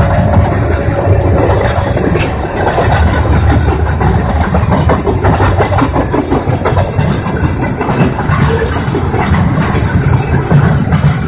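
Freight train rolling past close by: a continuous heavy rumble, with the wheels clicking over the rail joints.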